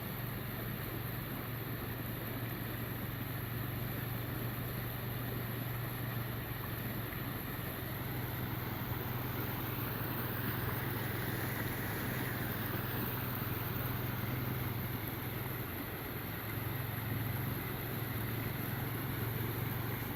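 Flash-flood runoff rushing down a normally dry desert wash: a steady rushing of muddy water with a low rumble underneath.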